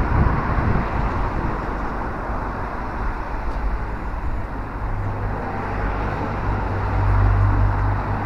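Steady outdoor background noise with a low rumble that swells from about five seconds in.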